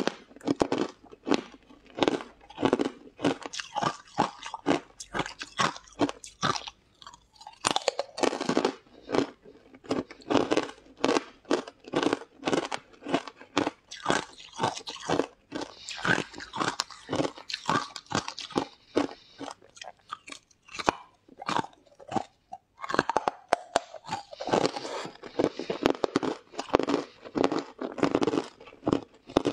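Close-miked eating of hard green chunks: rapid, crisp crunching as they are bitten and chewed, with a short lull about two-thirds of the way through before the crunching picks up again.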